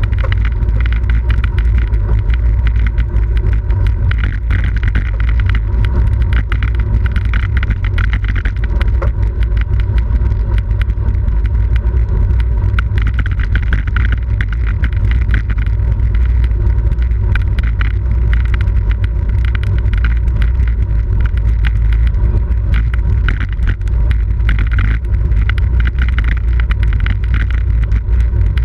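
Steady wind rush buffeting the microphone of a camera on a bicycle moving at race speed, with tyre and road noise underneath.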